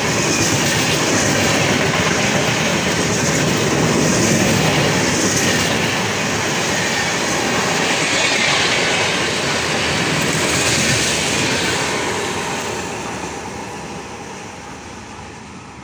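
Express train's LHB passenger coaches running past close by at speed, their wheels rattling over the rails. The sound fades steadily over the last few seconds as the tail of the train draws away.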